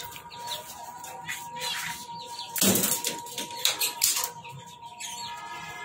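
Small caged birds chirping, with a loud burst of wing flapping about two and a half seconds in, over a thin steady whine.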